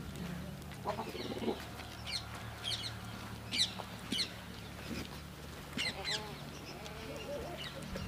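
Birds chirping in short, high calls about once a second, over a low steady hum. A few fainter, lower animal calls come in near the start and again in the second half.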